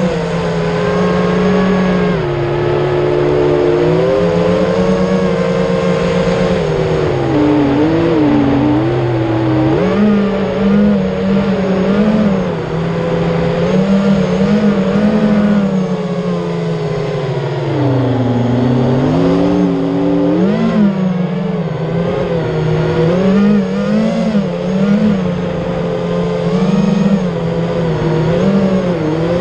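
FPV quadcopter's motors and propellers whining continuously, the pitch rising and falling again and again as the throttle changes.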